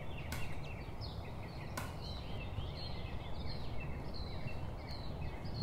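Many birds chirping and calling in short, repeated sweeping notes over a steady low rumble, with two sharp clicks in the first two seconds.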